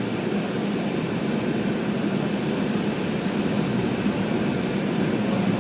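Automatic car wash air-dryer blowers running, a steady rush of air with a low hum, heard from inside the car.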